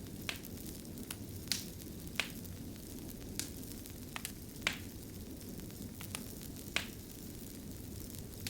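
Wood fire crackling in a fireplace: a steady low rumble with scattered sharp pops, a few of them louder than the rest.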